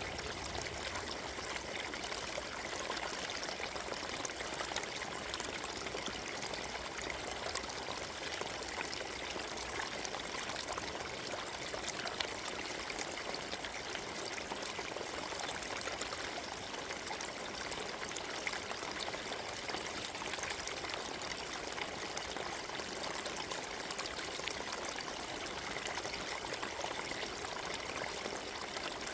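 Forest stream flowing and trickling over stones: a steady, unbroken rush of water.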